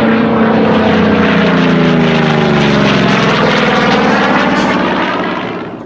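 Goodyear FG-1D Corsair's Pratt & Whitney R-2800 radial engine and propeller passing close by in flight. The pitch falls as it goes past about two to three seconds in, and the sound fades near the end.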